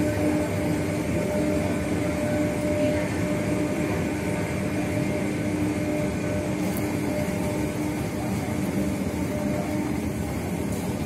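Passenger train at close range giving off a steady mechanical hum with a constant low tone that does not change.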